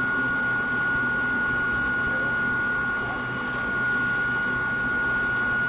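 Steady electrical hum inside a Hakone Tozan Railway Moha 1 type electric railcar, with a high constant whine over a low drone that holds one pitch throughout.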